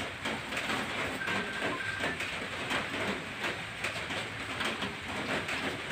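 Close-miked chewing and mouth noises of people eating fruit: a dense, irregular crackle of small clicks, with a short high steady note about a second in.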